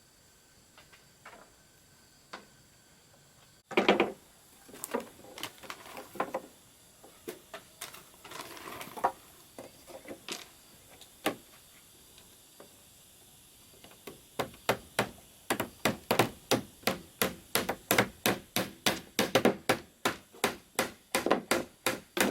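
Hammer blows on wood: a few scattered knocks at first, then from about halfway a steady run of about three sharp strikes a second.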